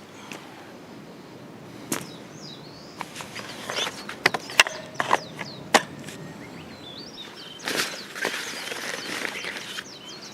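A string of sharp snaps and knocks, most of them bunched together about halfway through, over birds chirping.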